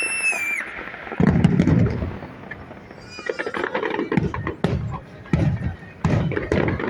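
Fireworks display: a high whistle from a whistling shell ends about half a second in, a loud low boom comes about a second in, and then a run of sharp, irregular crackling pops follows.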